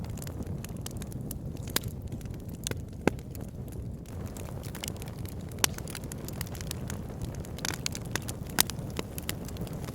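Wood fire burning in a log burner: a steady low rumble of flames with frequent sharp crackles and pops from the burning logs, a few louder snaps among them.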